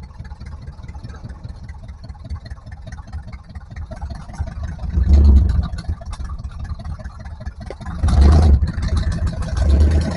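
Off-road 4x4's engine running under a low rumble, surging louder about five seconds in and again near the end as it is revved.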